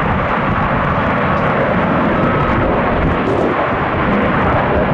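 Jet airliner engines running, a loud steady rush with a faint whine.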